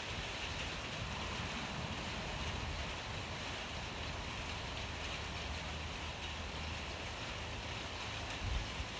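Steady rain falling: a continuous even hiss over a low rumble, with a couple of soft thumps near the end.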